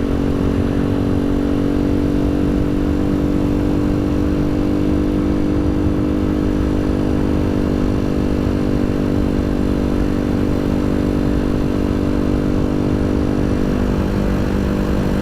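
Janus Halcyon 250 single-cylinder motorcycle engine running steadily at cruising speed, with wind rumbling on the microphone. The engine note drops lower near the end as the bike eases off.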